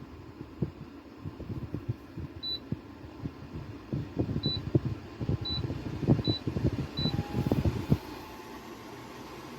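Five short, high electronic beeps from a bladeless tower fan's controls as its settings are changed, over irregular low rumbling buffets of air against the microphone. The rumbling stops about eight seconds in, leaving a steady low hum.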